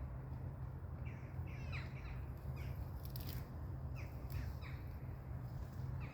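Birds calling repeatedly in short, harsh calls that slide downward in pitch, one or two a second, over a steady low rumble.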